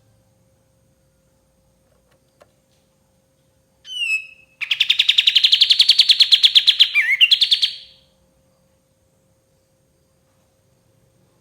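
Sooty-headed bulbul calling: one short call about four seconds in, then a fast, even trill of high notes lasting about three seconds, with a couple of quick swoops in pitch near its end.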